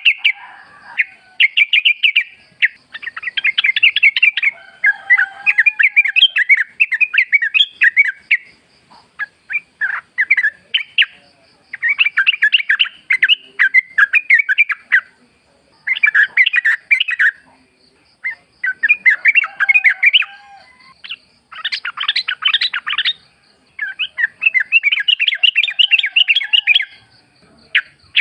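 Yellow-vented bulbul (trucukan) singing: bursts of rapid chattering notes one to three seconds long, repeated with short pauses, over a faint steady high trill.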